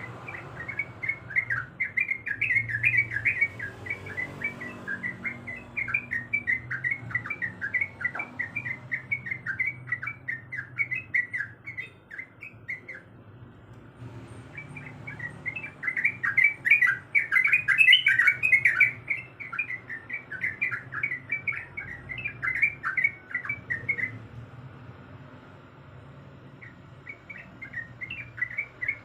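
Yellow-vented bulbul (trucukan) singing: long runs of quick, bubbling chirped notes, in three phrases with short pauses between them. A faint steady low hum lies underneath.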